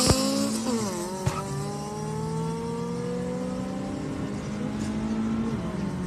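Daewoo Nexia 1.8 engine at full throttle, heard from inside its cabin during a drag-race launch. Its pitch drops at a gear change just under a second in, then climbs slowly as the car pulls through the next gear.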